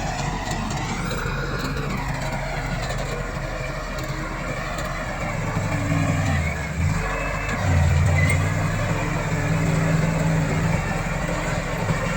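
Komatsu D68 bulldozer's diesel engine running under load, its note rising and falling. It works harder from about six seconds in, eases briefly, then is loudest from about eight seconds on.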